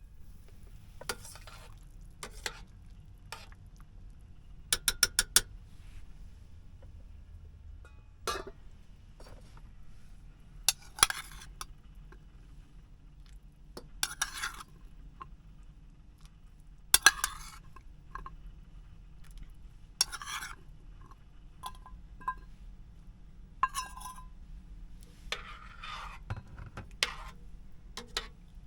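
Metal utensils clinking and scraping against pans and dishes at irregular intervals, with a quick run of clinks about five seconds in, over a low steady hum.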